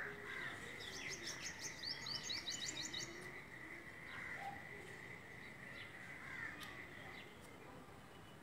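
A bird singing a rapid run of high chirps for about two seconds, beginning about a second in, over a steady thin high-pitched tone.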